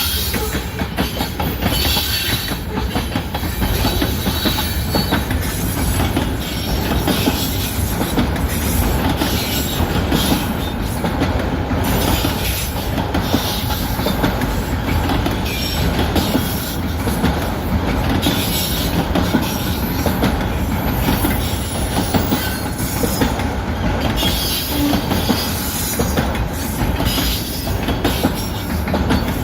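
CN mixed-freight train rolling past close by, its cars' wheels clattering steadily over the rail joints.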